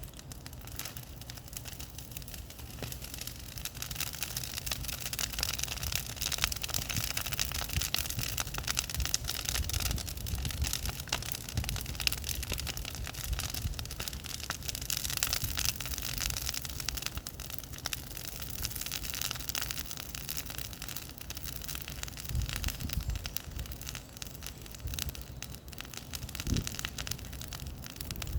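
Bonfire burning with a dense, steady crackle of many small pops.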